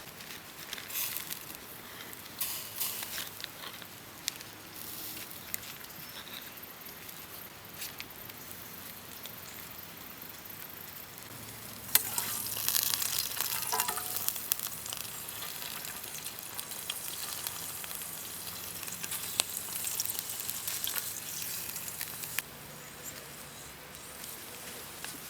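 Food sizzling and frying in a pan. The sizzle grows louder and denser after a sharp click about halfway through, then settles back down near the end.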